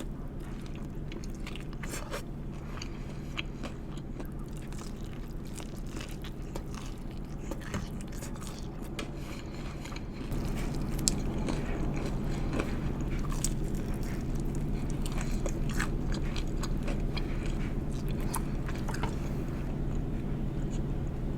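Chicken wings in strawberry hot sauce being bitten and chewed close to the microphone: scattered short clicks and crackles over a steady low hum. The hum gets louder about halfway through.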